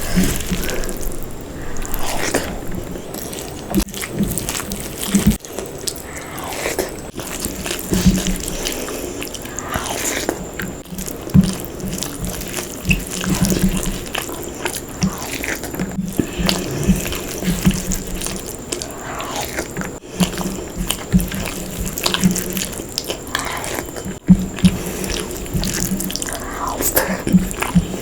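Close-miked eating: wet, irregular chewing and squishing of rice mixed with mutton gravy curry.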